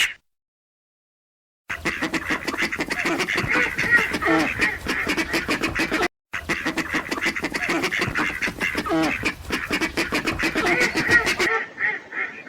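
A group of ducks quacking rapidly and continuously, in two stretches split by a brief silent break about six seconds in, fading near the end.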